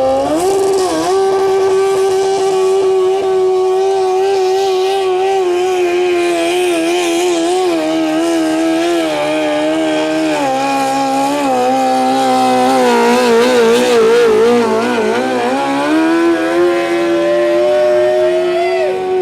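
Modified 1981 Cub Cadet 682 pulling tractor's engine running at high revs under load while dragging the weight-transfer sled. The pitch climbs at the start and holds high, then sags and wavers through the middle, climbs again, and drops off just before the end.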